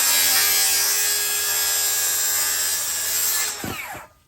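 Electric circular saw running through a wooden board, then the trigger is released about three and a half seconds in and the blade winds down with a falling whine to a stop.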